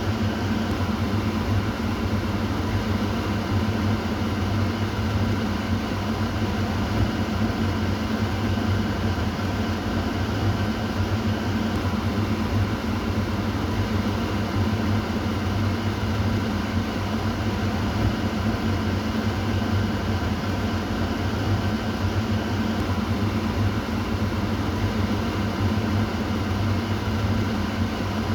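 Kitchen exhaust fan running steadily: an even whoosh of air over a low motor hum.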